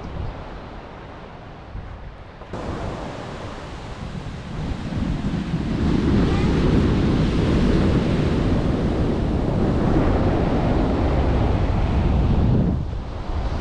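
Ocean surf breaking and washing up a black sand beach, swelling louder about five seconds in as a wave surges up the sand and dropping away shortly before the end. Wind buffets the microphone.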